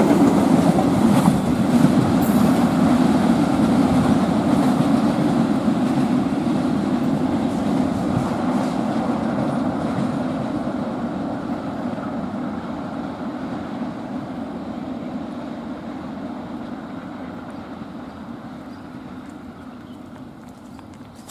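A train running past on the rails, its rumble fading steadily as it moves away.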